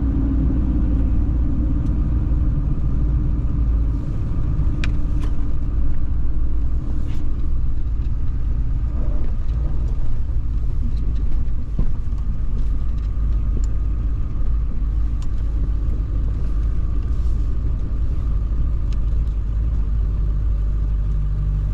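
A motor vehicle driving: a steady low engine and road rumble, with a faint steady whine above it.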